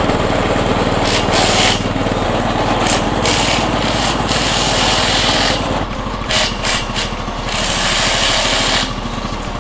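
Makita TD001 40V cordless impact driver hammering, driving bolts on scaffold-tube clamps: a fast, continuous rattle of impacts that stops sharply at the end.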